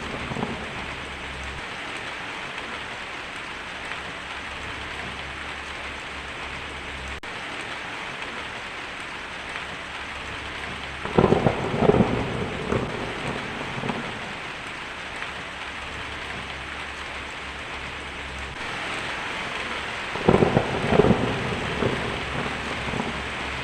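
Heavy rain drumming steadily on a tin roof, with thunder rumbling twice, about eleven seconds in and again about twenty seconds in, each rumble lasting a couple of seconds.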